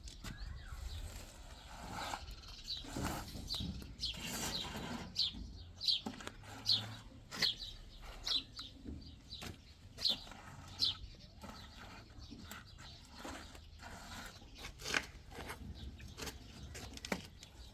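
A bird chirping over and over in short falling notes, about one or two a second, for most of the first half, with scattered sharp clicks and knocks throughout.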